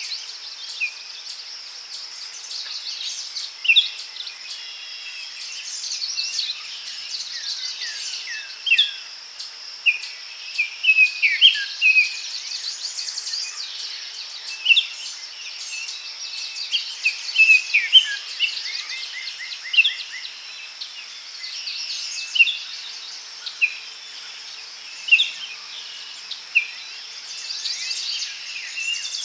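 Daytime forest ambience: many small songbirds chirping and trilling in quick, overlapping calls over a steady, high-pitched insect chorus.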